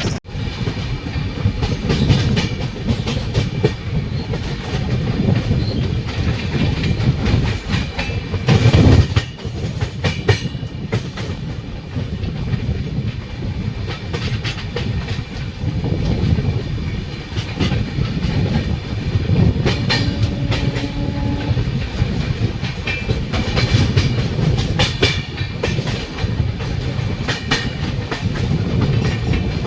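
Passenger train running at speed, with a steady rumble and wheels clattering over rail joints. A brief steady tone sounds about two-thirds of the way through.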